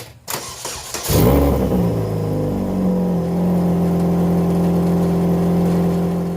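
Saturn Ion Redline's supercharged 2.0-litre four-cylinder cranked and started: it catches about a second in, flares up, and settles to a steady, very loud idle. The downpipe gasket is out, leaving the exhaust leaking wide open at the flange.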